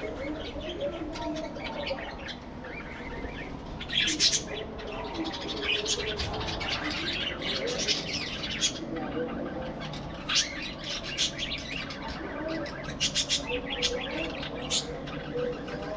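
A flock of budgerigars chattering, with many short sharp chirps and squawks over a continuous warbling.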